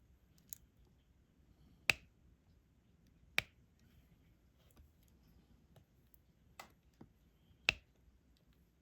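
Sharp, irregular taps of a diamond-painting drill pen pressing resin drills onto the canvas, about six in all with a second or more between them; three are much louder than the rest.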